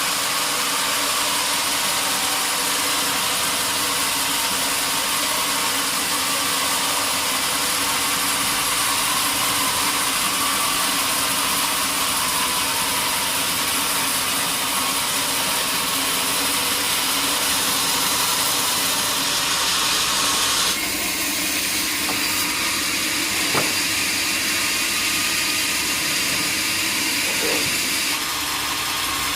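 Sawmill machinery running steadily: an even rushing noise over a steady hum, changing in character about two-thirds of the way through, with a single knock shortly after.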